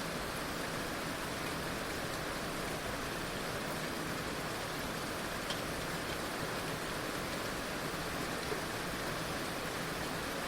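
Heavy rain falling steadily, an even hiss of rain with a few faint drop ticks.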